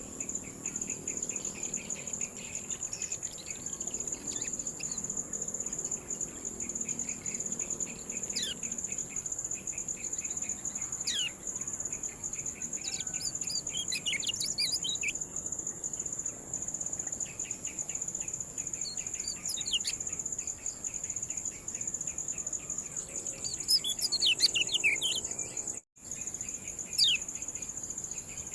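Kecial kuning bird giving short, sharp, downward-sweeping 'ciak' chirps, singly and in quick clusters, over a continuous high-pitched insect whine and a fast pulsing trill.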